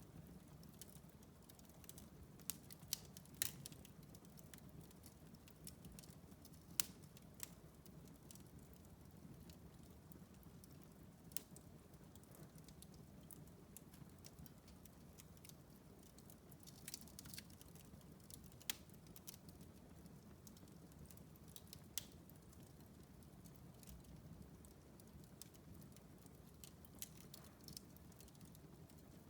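Wood fire in a fireplace crackling, with irregular sharp pops scattered through it over a faint low steady hum.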